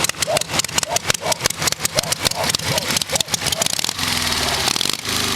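Ural motorcycle engine running, at first unevenly with rapid exhaust pulses, then settling into a steady idle about four seconds in.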